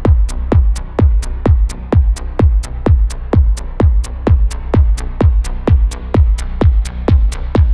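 Progressive house track built from LMMS's built-in synth sounds: a four-on-the-floor kick drum with a falling pitch, about two beats a second, over a steady low bass line.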